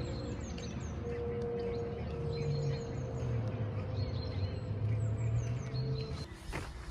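Small songbirds chirping over and over in quick, high, down-slurred notes, over a low steady hum that stops about a second before the end.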